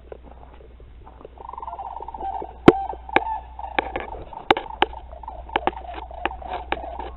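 Sandhill cranes giving their rolling, rattling bugle call, which starts about a second and a half in and carries on. Sharp clicks and knocks come through it, the loudest about three seconds in.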